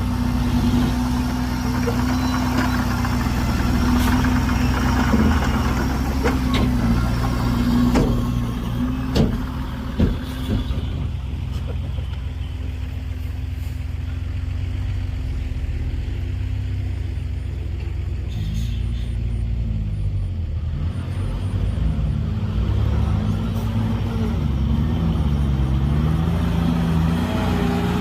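Heavy diesel engine of earthmoving machinery running steadily, with a few sharp knocks in the first ten seconds. In the second half the engine speed rises and falls repeatedly as it works.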